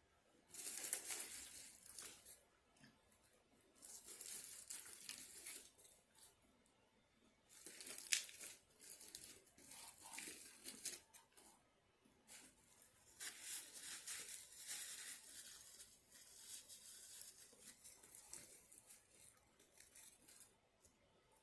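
Paper being crumpled and torn, in four bouts of crinkling with short quiet gaps between.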